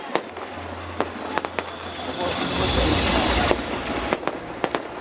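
Fireworks going off: scattered sharp bangs and cracks over a low rumble, with a loud hissing rush in the middle that cuts off suddenly.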